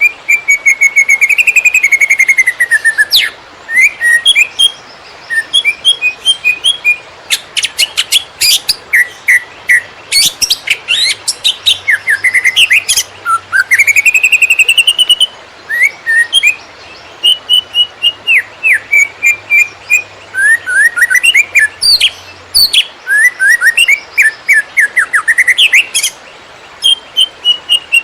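Cucak ijo (leafbird) singing a fast, almost non-stop 'konslet' song: rapidly changing whistles, chips, slurred notes and trills, with a run of sharp clicking notes near the middle.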